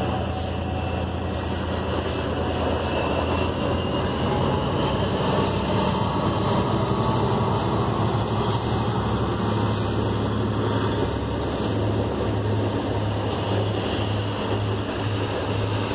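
Train running past with a steady, loud mechanical drone; the low hum pulses in an even rhythm near the end.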